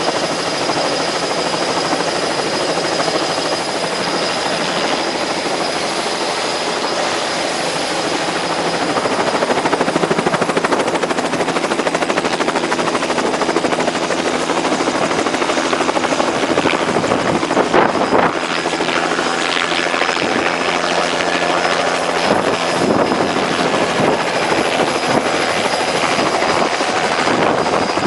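Helicopter in flight: steady rotor and engine noise with a thin, steady high whine, getting somewhat louder about a third of the way in.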